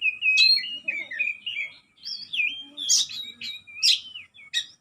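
Oriental magpie-robin (kacer) singing a continuous, varied run of clear whistled phrases mixed with quick sharp notes.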